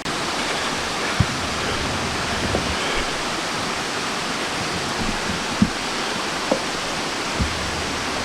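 Waterfall pouring steadily, with a few short knocks over it.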